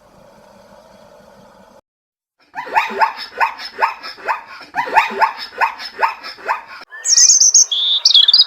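Animal calls: a run of short calls, each falling in pitch, about two a second, then high bird chirps near the end.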